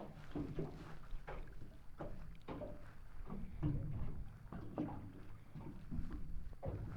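Water lapping and slapping against the hull of a small fishing boat, in short irregular knocks several times a second over a low rumble.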